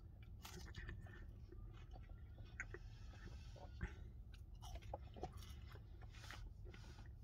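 A man chewing and eating chips (French fries): faint, irregular small mouth clicks and chewing noises.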